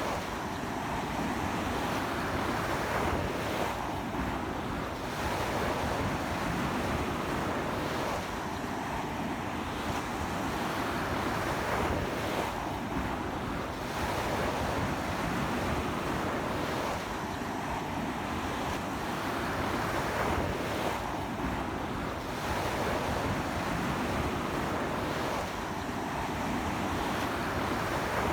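Ocean surf washing onto a beach in strong wind: a continuous roar of water that swells and eases about every four seconds as waves break, with wind on the microphone.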